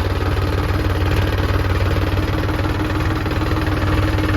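A tractor's diesel engine running steadily with a fast, even firing beat, swelling slightly in loudness in the first second.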